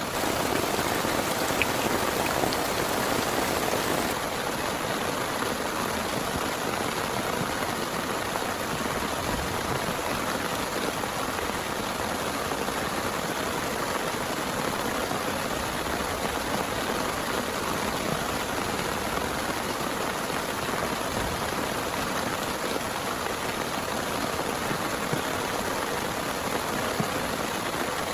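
Heavy rain falling steadily, a dense even hiss of drops, with a sudden slight drop in level and change in tone about four seconds in.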